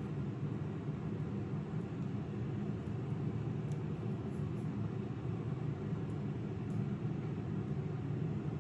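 A steady low rumble that holds even throughout, with a few faint high ticks about four seconds in.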